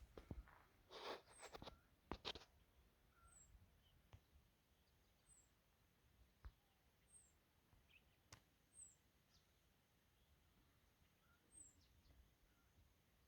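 Faint birdsong: a short, high chirp repeated about every two seconds over a quiet hiss, with a few sharp clicks in the first two or three seconds.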